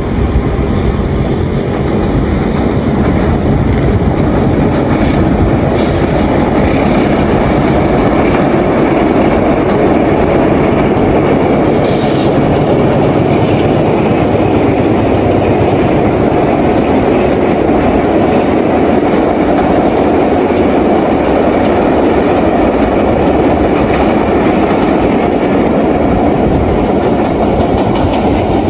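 Diesel-hauled passenger train rolling across a steel truss viaduct: a steady, loud rumble of wheels and carriages with clickety-clack from the rail joints.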